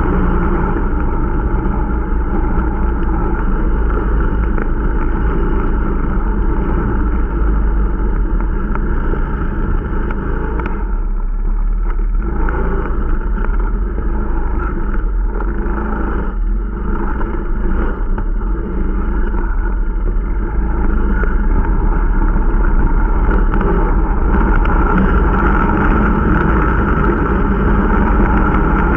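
Irbis Dingo T125 snowmobile's small four-stroke engine running under way, as a new machine is being run in. The engine eases off for a few seconds about halfway through, then picks up again and runs louder in the last several seconds.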